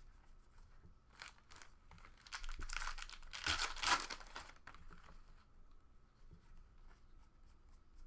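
A foil trading-card pack wrapper being torn open and crinkled, with the loudest crackling in the middle, then light clicks of cards being handled.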